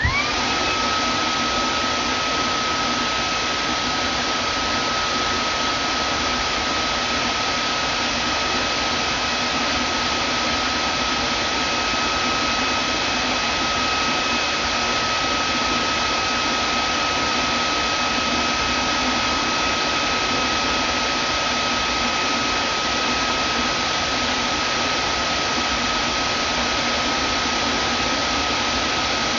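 Vacuum cleaner switched on: its motor whine rises quickly to a steady high pitch within the first second, then it runs steadily with a dense rush of air.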